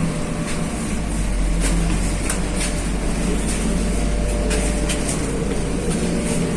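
MAZ-215 articulated city bus on the move, heard from on board: a steady low engine and running drone with short light rattling ticks scattered through it.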